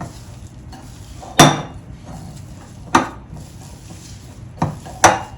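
Sharp knocks of a mixing bowl and utensil while risen yeast dough is punched down in it: four strikes, the first about a second and a half in the loudest and ringing briefly.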